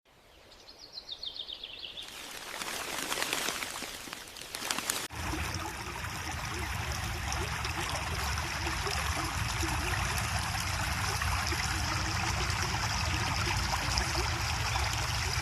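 Steady rush of running water, like a stream, after a sudden cut about five seconds in. Before the cut, a short falling run of quick high notes, then a rising rush of noise.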